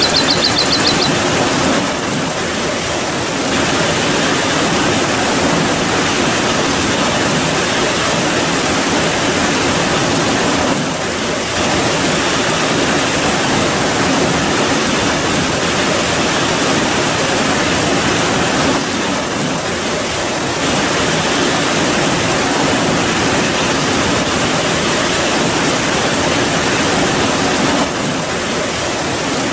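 Heavy rain falling steadily: a loud, dense, even hiss. A brief high trill sounds in the first second.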